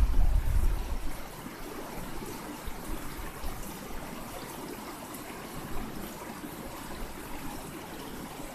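River water flowing steadily. A loud low rumble fades out about a second in.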